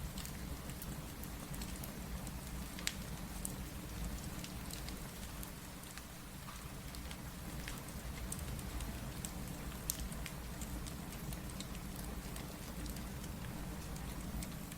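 Steady rain mixed with a crackling wood fire: a constant low rush dotted with sharp, irregular pops, two of them louder, about three and ten seconds in.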